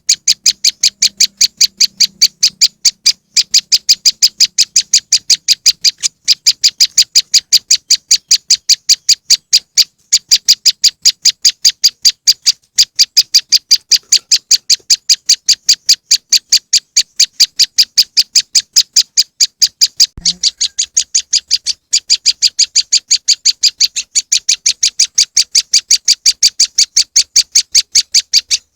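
Recorded call of a prenjak lumut played as a bird lure: a fast, unbroken series of short, high, sharp chips, about three a second, repeated on a loop. A brief break with a small click comes about twenty seconds in.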